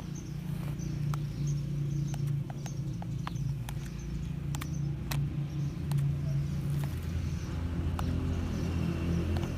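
A steady low motor hum, with many light, sharp clicks and ticks scattered through it.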